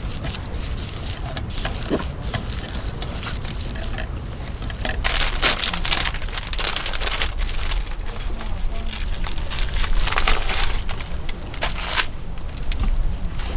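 Strong wind rumbling on the microphone, with irregular gusts of crackling, rustling noise that swell around the middle and again near the end.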